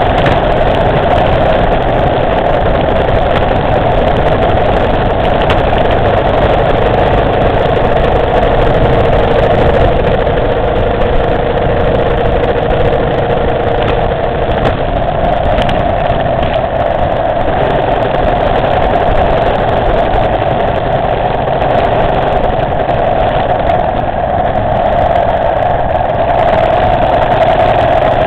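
Motorcycle engine running at a fairly steady speed while riding, with no sharp revving.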